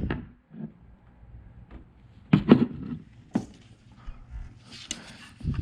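Handling noises: a short clunk about two and a half seconds in, a sharp click about a second later, and faint rustling.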